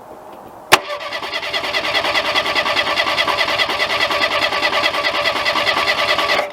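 Ford Pinto engine catching with a sharp bang about a second in, then running for about six seconds with a rapid even beat before cutting out suddenly. It runs on the extra fuel but will not idle, because the carburetor's accelerator pump is stuck.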